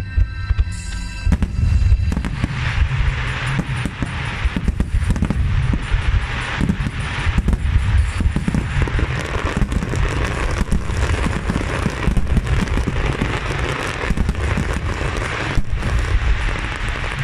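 A rapid-fire barrage of aerial firework shells bursting, dense overlapping booms with crackling. Music is heard for the first second or so, then the booms take over.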